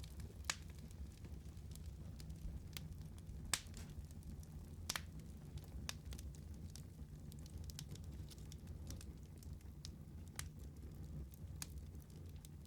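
Wood fire crackling, with irregular sharp pops over a steady low rumble of the flames. The loudest pop comes about three and a half seconds in.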